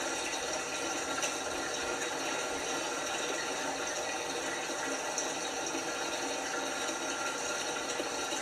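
LG washing machine filling with water: a steady rush of water flowing into the drum, with a few faint ticks.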